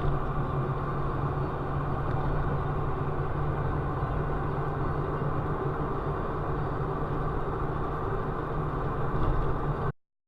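Steady engine and road noise of a moving vehicle, even throughout with a low hum, cutting off abruptly near the end.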